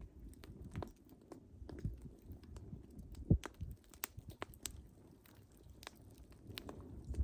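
Wood fire crackling: irregular sharp pops and snaps, the loudest about three seconds in, over a low, uneven rumble of the burning logs.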